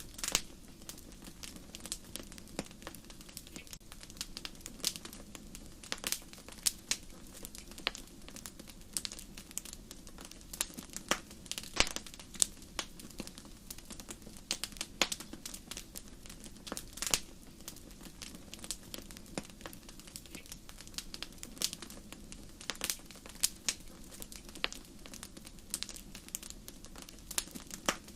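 Fireplace fire crackling: irregular sharp pops and snaps, a few a second and a few louder ones, over a steady low hum.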